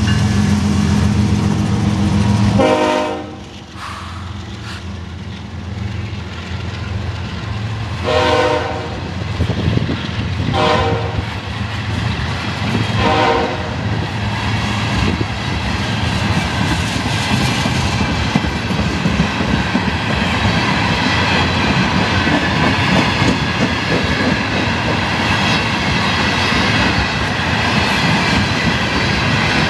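A CSX freight train's diesel locomotive engine drones loudly as it passes, then falls away about three seconds in. The train's horn sounds four short blasts over the next ten seconds while the refrigerated boxcars roll past, their wheels clacking steadily over the rail joints and growing slightly louder toward the end.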